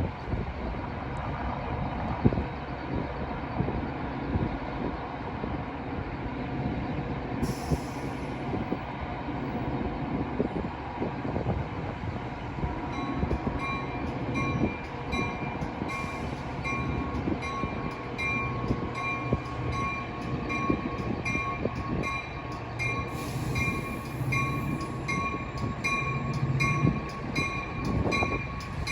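Metra commuter train rumbling on the tracks at the station, with a bell-like tone ringing about twice a second from about halfway through.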